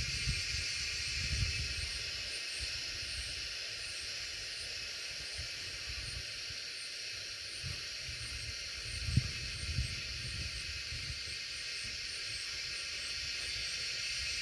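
Wind blowing as a steady high hiss, with irregular low buffeting gusts on the microphone and a brief louder gust about nine seconds in.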